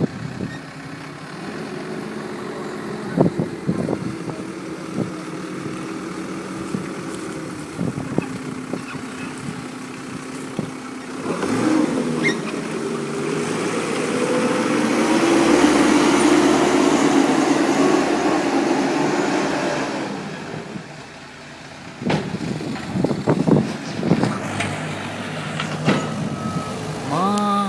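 Cat 287B compact track loader's diesel engine running, revving up under load for several seconds midway and then dropping back to a lower speed. Scattered clanks and knocks come through, and a short rising whine is heard near the end.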